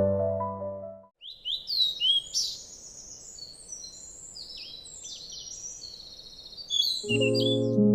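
Birds chirping and singing, many short high notes overlapping, over a soft outdoor background hiss. Gentle piano-like background music fades out about a second in and comes back near the end.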